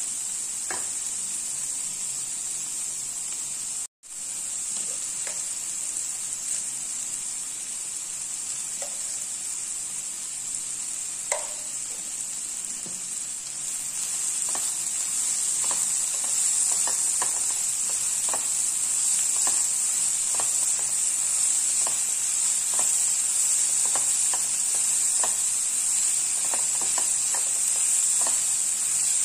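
Mixed vegetables sizzling as they stir-fry in a nonstick pan, with scattered light scrapes and taps of a silicone spatula turning them. The sizzle cuts out for an instant about four seconds in and grows louder about halfway through.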